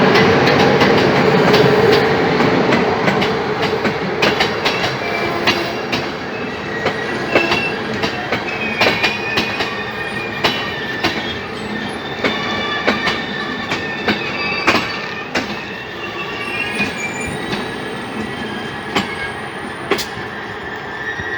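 Railway carriages rolling past, wheels clicking over rail joints, with high-pitched wheel squeal coming in from about seven seconds in.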